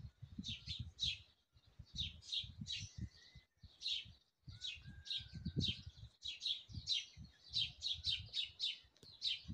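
Songbirds chirping busily, short high notes several a second with brief pauses, over low irregular rumbling on the microphone.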